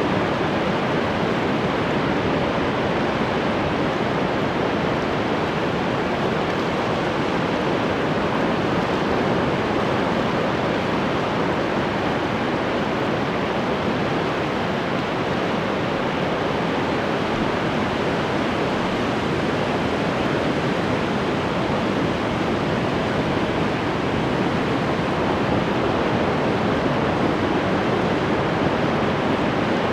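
Ocean surf washing steadily: an even, unbroken hiss of breaking waves with no single wave standing out.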